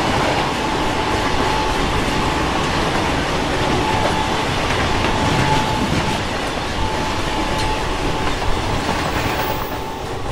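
Netaji Express passenger coaches running at speed: a steady rush of wheel-on-rail and air noise, with a faint thin squeal that comes and goes.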